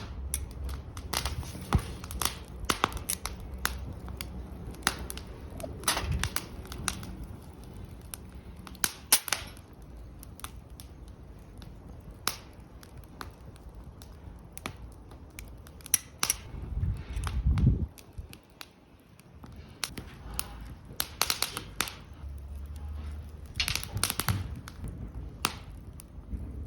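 Wood fire in a fire pit crackling, with sharp pops at irregular intervals. A brief low rumble swells and stops about two-thirds of the way through.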